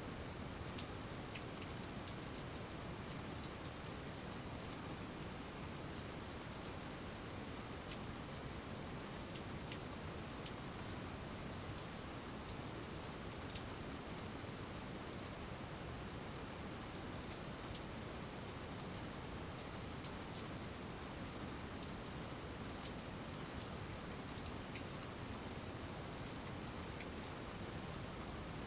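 Steady rain falling, an even hiss with many small, sharp drip ticks scattered through it.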